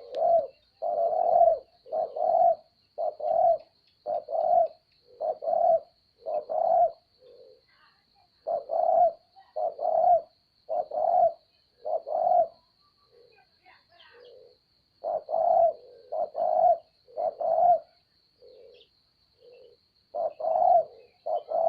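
A dove cooing over and over, in phrases of several low hooting notes with short pauses between the phrases. A faint steady high-pitched hiss sits underneath.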